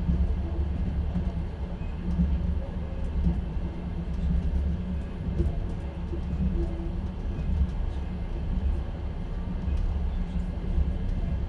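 Steady low rumble of a moving passenger train, heard from inside an open-plan sleeper (platskart) carriage, with faint scattered ticks and rattles over the running noise.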